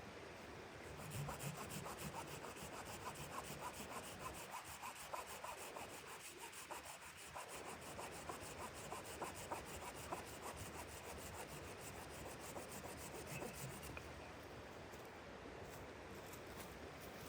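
Rhythmic scraping on wood in quick, even strokes, stopping a few seconds before the end.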